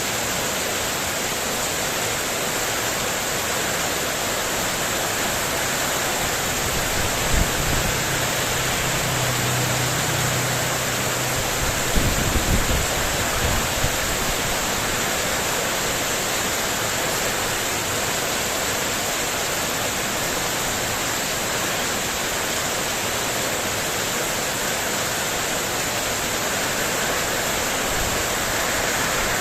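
Heavy rain pouring steadily onto a spandek metal roof in a windstorm. Near the middle there is a brief low hum and a few low thumps.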